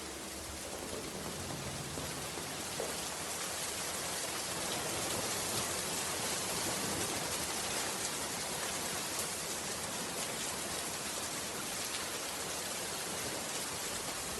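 Steady rain, an even hiss of falling drops that swells a little over the first few seconds.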